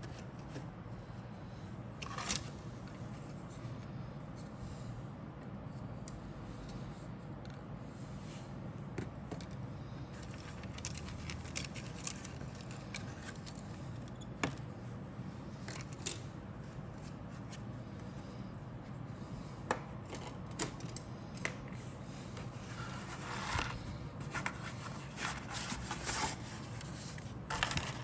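A plastic model kit's box and parts being handled: scattered light clicks and scrapes, with a stretch of rustling and scraping near the end, over a steady low hum.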